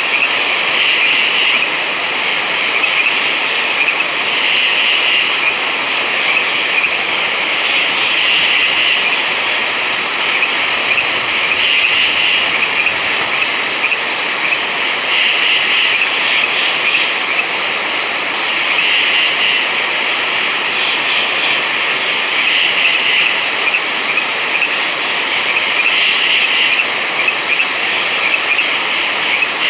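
A dense night chorus of frogs calling steadily. A short pulsed call rises above it about every three and a half seconds.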